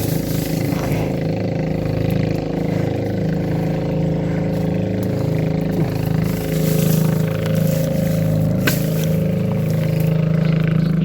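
A small motor running steadily with a low, wavering drone. A single sharp click comes about three-quarters of the way through.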